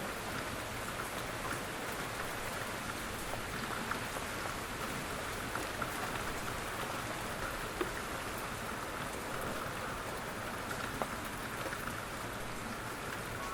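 Steady rain falling on a surface, an even hiss with many small scattered drop ticks and an occasional sharper drip.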